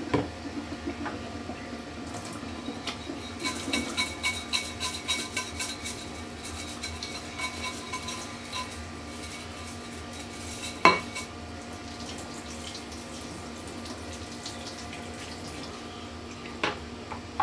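Dishwashing: a soaped plastic plate being worked over, with several seconds of quick scraping and clinking, then a single knock about eleven seconds in and another near the end.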